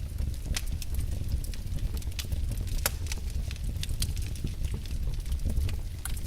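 Wood fire burning in a fireplace, with a steady low rumble of flames and irregular crackles and pops from the burning logs.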